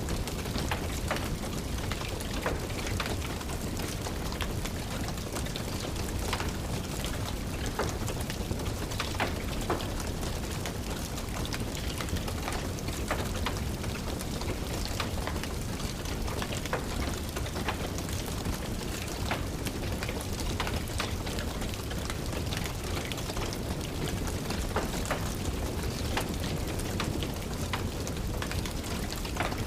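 Steady rain mixed with the frequent, irregular sharp crackles and pops of a burning wood fire.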